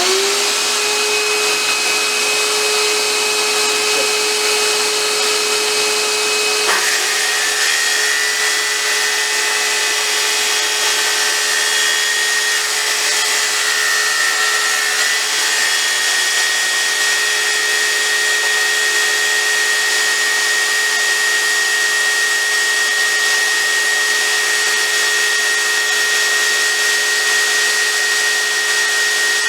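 Electric circular saw (Skil saw) spinning up and then running steadily with a constant high whine and a heavy hiss, used to cut a very shallow groove in a wooden lure blank for a through-wire channel. The tone shifts briefly about seven seconds in.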